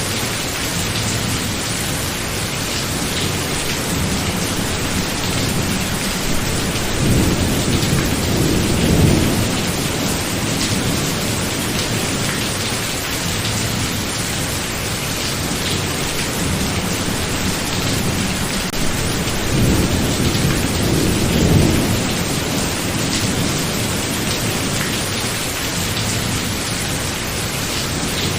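Steady heavy rain of a thunderstorm, with two low rolls of thunder swelling and fading, one about a quarter of the way in and another about two-thirds through.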